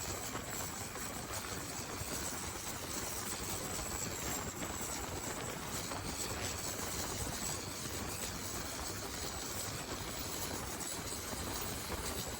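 Racing longtail boat engines running flat out, a steady dense engine noise with a thin high whistle held over it and no rise or fall.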